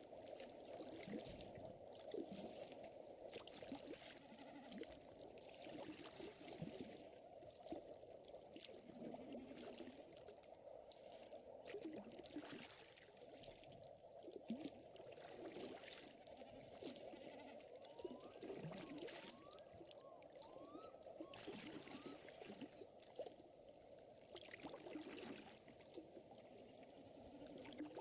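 Faint ambience of a crackling fire, with scattered small pops, over a steady soft wash of water. A few short rising chirps come from some small animal between about 18 and 21 seconds in.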